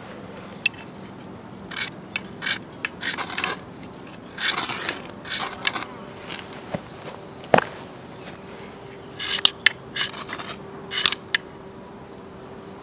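A metal utensil scraping against a cooking pan or dish in a series of short scrapes, with a few sharp clicks in between. From about two-thirds of the way in, a steady insect buzz is heard underneath.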